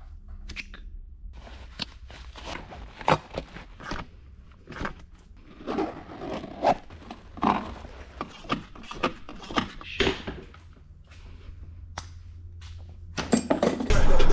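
Irregular clicks, knocks and scrapes of hands working with parts, over a steady low hum. Near the end a louder, denser rush of noise begins.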